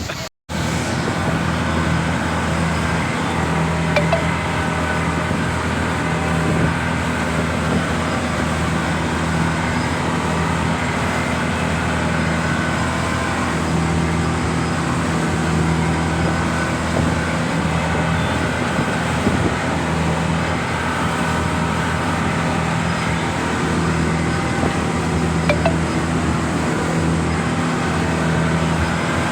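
A boat's engine running at a steady, unchanging speed, with a continuous low hum.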